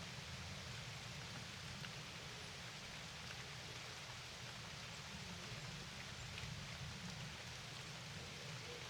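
Steady rain falling: an even hiss with a low rumble underneath and a few faint scattered drop ticks.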